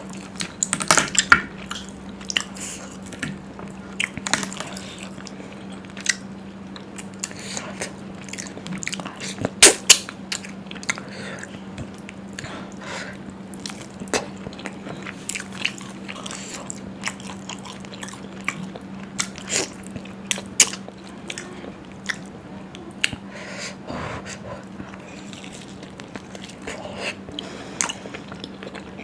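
Close-miked eating: a person biting and chewing spicy Indian food (mutton curry, chilli chicken and puri), with irregular wet mouth clicks and smacks. A faint steady hum runs underneath.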